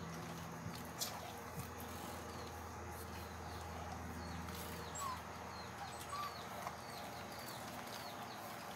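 Faint, short chirps of small birds repeating over a steady low hum, with a couple of brief, lower squeaks about five and six seconds in and a single click about a second in.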